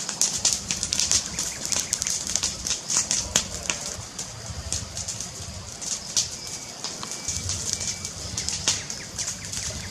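Fire crackling: a dense run of irregular sharp pops and snaps over a low steady rumble of the flames.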